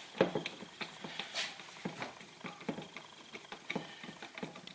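Hand tool working the Torx screws on a throttle body: light, irregular clicking and tapping, several a second, with a slightly louder knock near the start.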